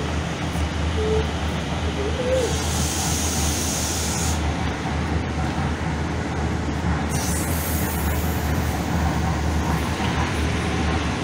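Train running with a steady low rumble. About two seconds in, a hiss starts and lasts about two seconds, and later a short falling hiss follows.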